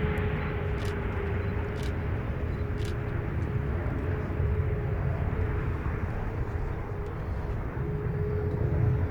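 Jet engine rumble from the Hongdu L-15 advanced jet trainers in display flight, a steady roar with a thin whine held through it.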